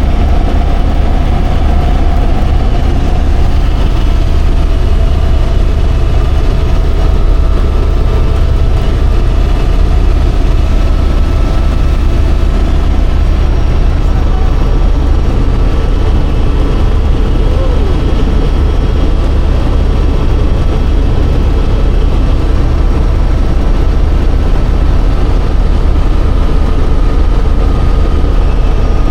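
Helicopter running steadily: a loud, even rumble with a faint steady whine above it.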